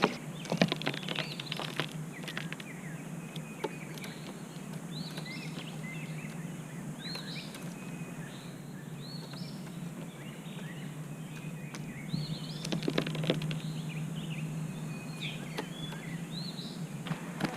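A small bird chirping over and over in short rising and falling calls. Bursts of light tapping and knocks come near the start and again about twelve seconds in, over a steady low hum.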